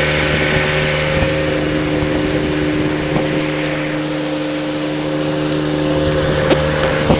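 Motorboat engine running steadily at cruising speed, with a constant rush of noise over it and a couple of brief knocks near the end.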